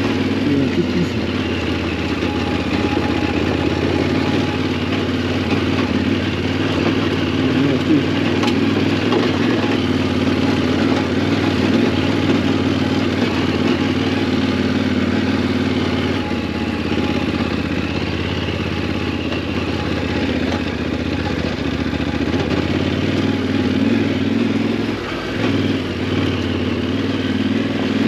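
Yamaha Ténéré 700's 689 cc parallel-twin engine running steadily under way as the motorcycle is ridden off-road, with a brief dip in level about 25 seconds in.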